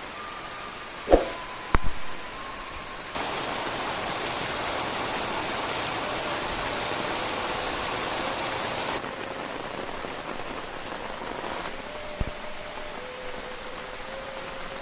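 Rain falling steadily, heavier for several seconds in the middle, with a couple of sharp knocks about a second in and one more near the end.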